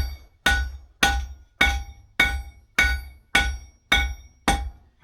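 Hand hammer striking steel on an anvil: about nine even blows, a little under two a second, each one ringing as it fades. The forge is out of gas, so the steel is cooling and no longer soft under the hammer.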